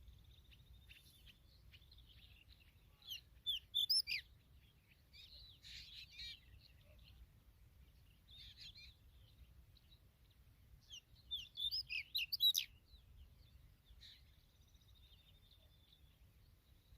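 Familiar chats chirping: two loud bursts of rapid high chirps, one about three seconds in and one from about eleven to twelve and a half seconds in, with softer, scattered twittering in between and afterwards.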